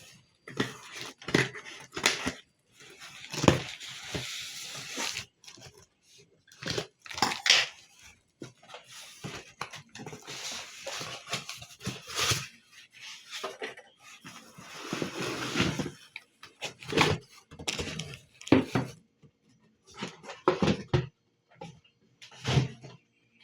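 Packaging being handled while unboxing an electric kettle: stretches of rustling and scraping with scattered knocks and taps.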